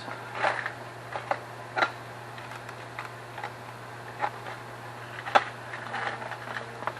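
Scattered light clicks and taps of small metal parts being handled at a workbench: brass throttle-shaft bushings and carburetor pieces being picked up and tried. One sharper click about five seconds in, with a steady low hum underneath.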